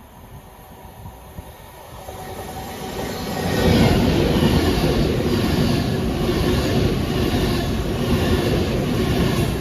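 Class 390 Pendolino electric express train approaching and passing through the station at speed. It grows louder over the first few seconds, then becomes a loud, steady rush of wheels on rail with a faint repeating beat.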